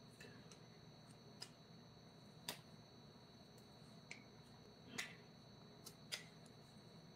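Faint, sharp light taps or clicks, about six of them at uneven intervals, over a quiet background with a faint high steady whine.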